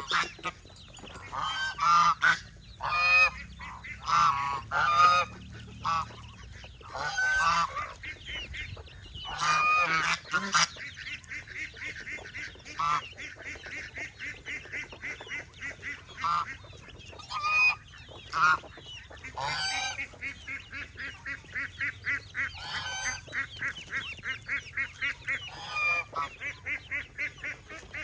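Farm geese honking: loud separate honks in the first part, then a fast run of short repeated calls, about four a second, with a few louder honks breaking in.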